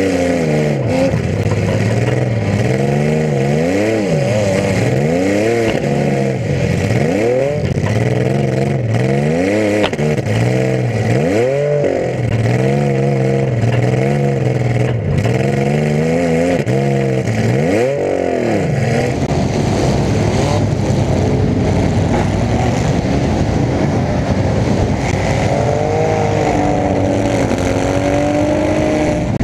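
Demolition derby car's engine with open exhaust pipes, revved up and down over and over as the car drives around. About two-thirds of the way in it changes to a steady, heavy rumble, with a few faint pitch glides near the end.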